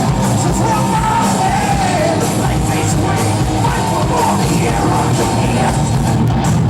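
Live rock band playing loud, distorted rock with a yelled, sung vocal over drums and guitars.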